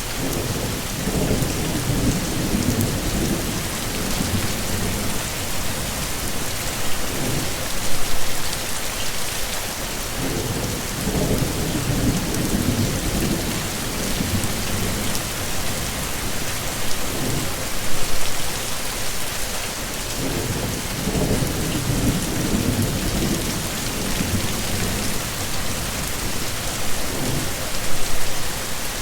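Heavy rain falling steadily, with low rolls of thunder that swell and fade roughly every ten seconds.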